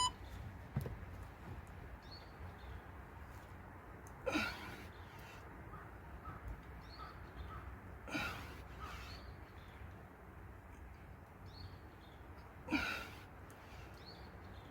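A man breathing out hard three times, about four seconds apart, each a short breathy huff.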